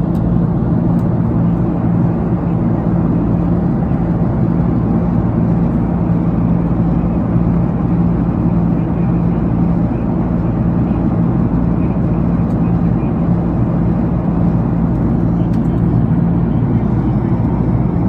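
Airliner cabin noise in flight: a steady, loud rush of air and engine noise with a constant low hum.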